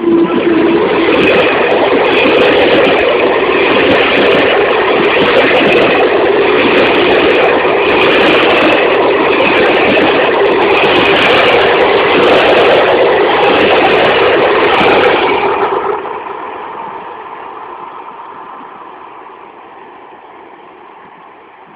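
Train passing close by at speed: a sudden loud onset, about fifteen seconds of steady rolling noise, then it fades away over the last few seconds.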